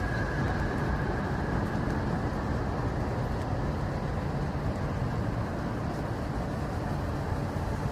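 Steady low engine and motion rumble of a moving vehicle, even throughout, with a faint high whine near the start.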